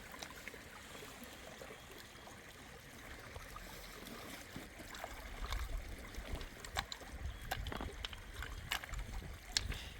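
Faint running water with scattered light clicks and knocks, which come more often in the second half.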